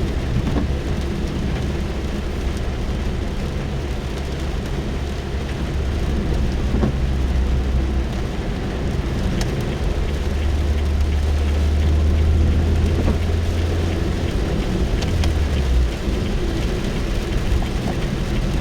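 Rain falling on a car, heard from inside the cabin as a steady patter over the car's deep, even rumble, with a few sharper drop taps now and then.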